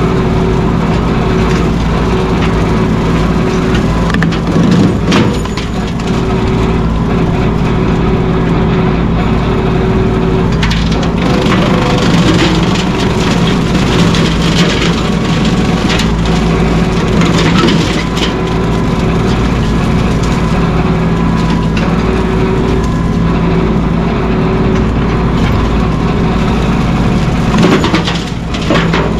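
Mahindra 1626 sub-compact tractor's diesel engine running steadily at working speed, with scattered sharp cracks and crunches of brush and wood breaking.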